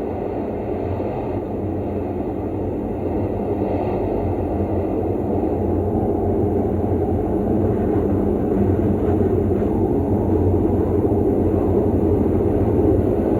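Storm-wind sound effect: a steady low rumbling noise that slowly grows louder.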